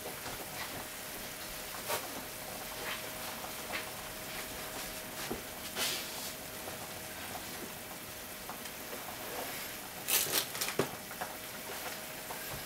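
Macaroni, sausage and onion sizzling in a frying pan: a steady hiss with scattered pops and crackles, a cluster of louder pops about ten seconds in.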